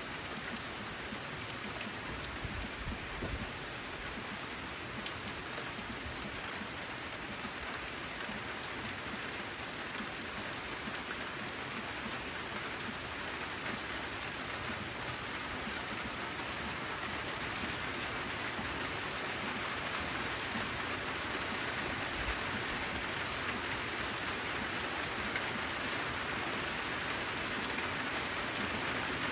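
Steady rain falling on a corrugated zinc roof, a dense hiss dotted with sharp drop ticks, growing slowly heavier. A brief low rumble comes about two to three seconds in.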